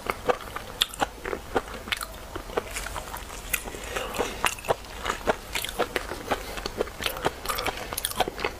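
A person chewing raw red shrimp close to a clip-on microphone: an irregular run of quick, wet mouth clicks and smacks, several a second.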